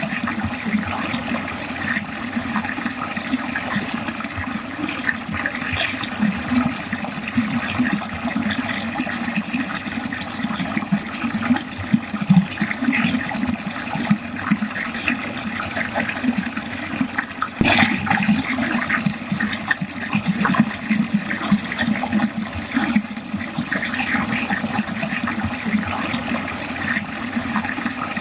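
Water draining steadily, with continuous gurgling and splashing. A brief sharp click comes about two-thirds of the way through.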